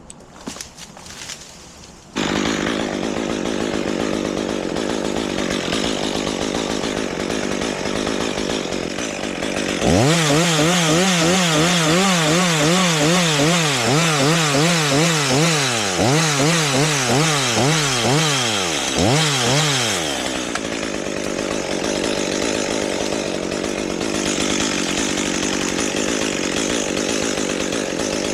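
Chainsaw running, starting abruptly about two seconds in. From about ten seconds to about twenty seconds the engine note is loudest, its pitch wavering quickly up and down before it falls away.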